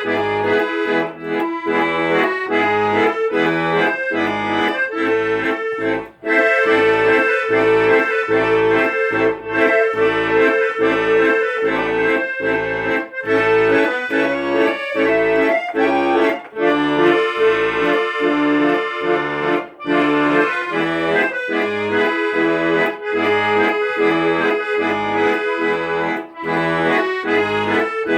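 Accordion playing an instrumental tune: a regular bass-and-chord rhythm under a melody, with a brief break about six seconds in.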